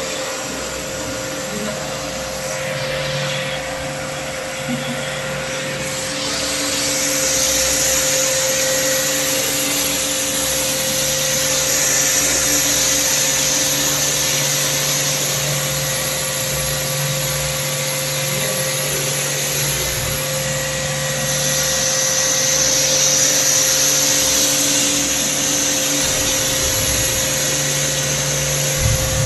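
Motor-driven cleaning machine for an air-conditioner coil running steadily with a constant high hum. A hissing rush grows louder about six seconds in, eases off, then comes back.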